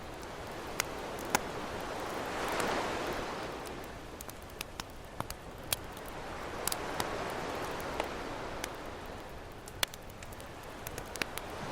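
Campfire crackling with sharp pops scattered throughout, over ocean waves washing in and receding, swelling about every four to five seconds.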